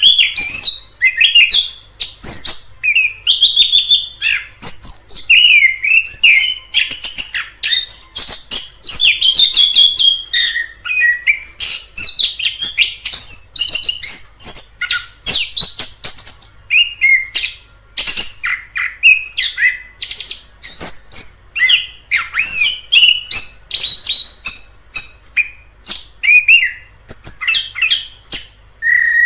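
Orange-headed thrush singing a long, varied song of quick whistled phrases, slurs and trills mixed with sharp clicks, with hardly a pause.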